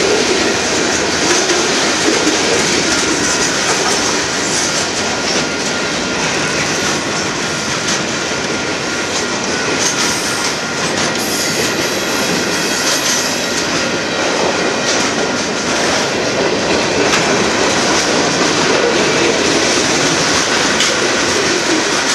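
Freight cars of a Union Pacific manifest train rolling steadily past: a continuous rumble and rattle of steel wheels on rail, with scattered clicks over the joints.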